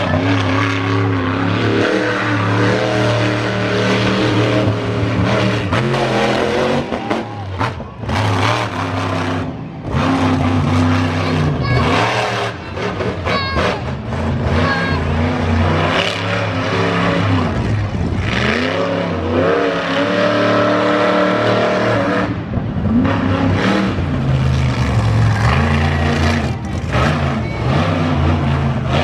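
Monster truck engine running hard and revving, its pitch rising and falling again and again as the throttle is worked.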